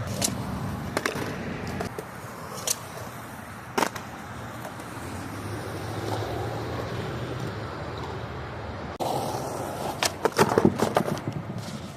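Skateboard wheels rolling on concrete, with a few sharp clacks of the board in the first few seconds. About nine seconds in the rolling gets louder, followed by a rapid cluster of clattering impacts as the board hits the ledge and clatters away on a failed trick attempt.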